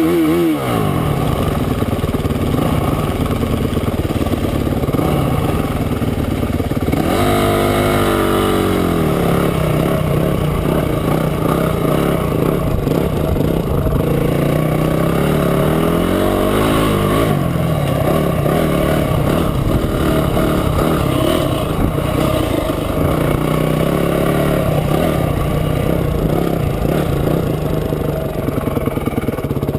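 Trail motorcycle engine running under way, its revs rising and falling with the throttle, with a marked drop and climb in pitch about a quarter of the way in and another rise a little past the middle.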